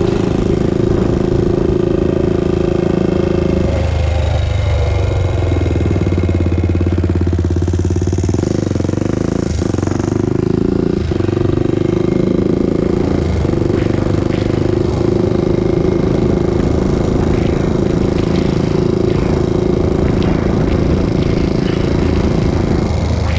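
Honda TRX400EX ATV's single-cylinder four-stroke engine running steadily, its pitch shifting between about four and eight seconds in, with a few sharp knocks around the middle.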